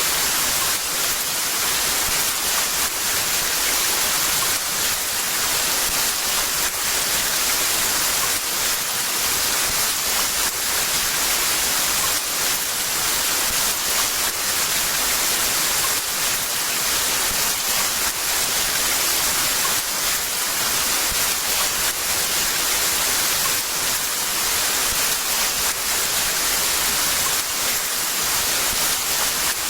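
Heavy rain falling hard and steadily: a dense, unbroken hiss of many drops, with no thunder.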